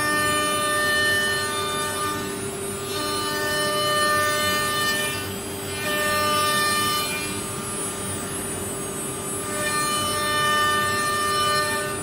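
CNC wood router running: a steady motor whine at several pitches, some tones starting and stopping, with a rushing noise that swells and fades every few seconds.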